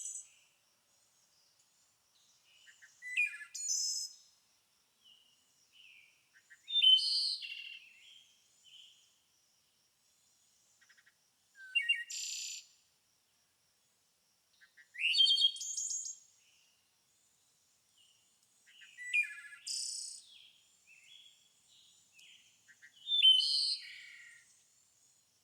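A songbird singing short, varied phrases of chirps and whistled slides, one phrase every three to four seconds, with quiet gaps between.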